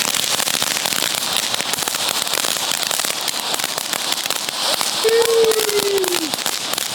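Small consumer firework crackling: a dense, steady stream of tiny pops and fizz. About five seconds in, a single falling tone sounds over it.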